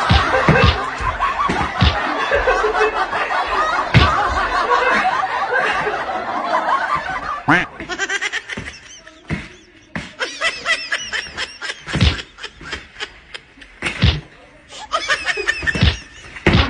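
A group of people laughing hard together. About halfway through it thins out into one or two people's repeated high-pitched bursts of laughter, with a few sharp hits among it.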